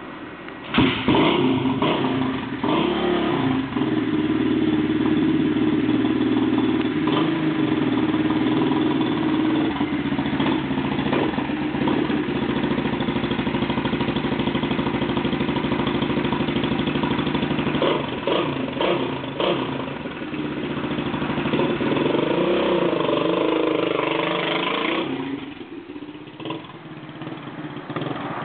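1981 Honda XL185's single-cylinder four-stroke engine starting about a second in and then running steadily with occasional throttle blips. Near the end it revs up and down, and the sound drops off suddenly as the bike rides away.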